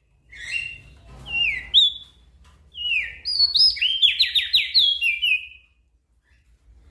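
Crested darkeye (opior jambul) singing: quick phrases of clear whistled notes that slide downward, in bursts with short gaps, stopping about a second before the end.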